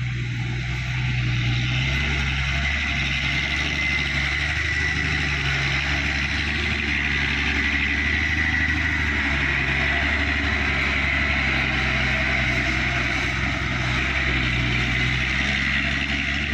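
A Mitsubishi Fuso dump truck's diesel engine running steadily at a constant pitch, with a steady hiss over it.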